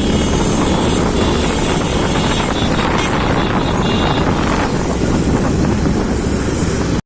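Riding a motorcycle at speed: a steady rush of wind buffeting the microphone over engine and road noise. It cuts off abruptly right at the end.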